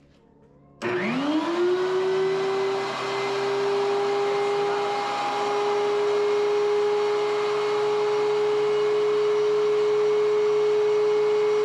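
DEWALT DW735 thickness planer switched on and running empty, with no board fed through. About a second in, its motor and cutterhead spin up fast with a rising whine, then run at a steady, really loud high whine over a rushing noise.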